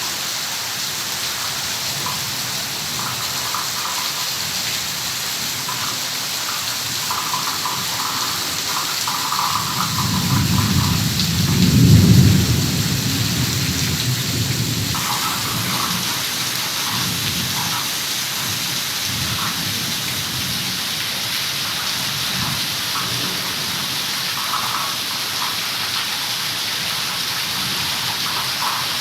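Heavy rain falling steadily, with a low rumble of thunder that swells about ten seconds in, peaks briefly and fades over a few seconds.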